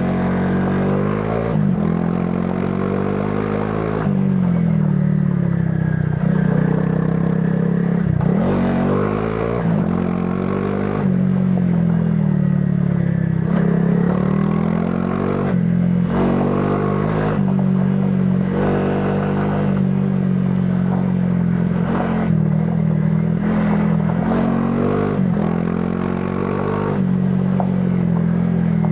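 Honda CRF300 Rally's single-cylinder engine through its stock exhaust, riding off-road: the engine note climbs and drops over and over with the throttle and gear changes, with rattling and scraping from the bike on the rough track.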